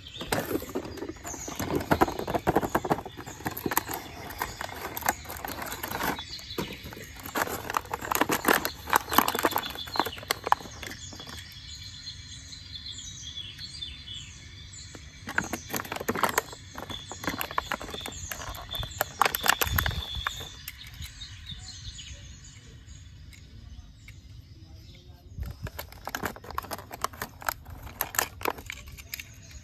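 Irregular knocks and clatter, in bunches with quieter gaps between, and birds chirping in the background.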